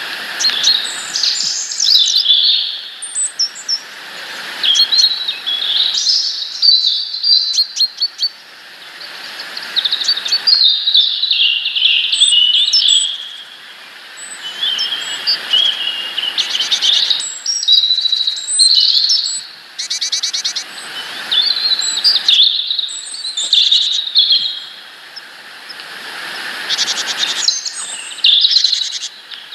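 Small songbirds chirping and calling, with short high notes and trills repeating throughout and several birds overlapping. The background hiss changes abruptly several times.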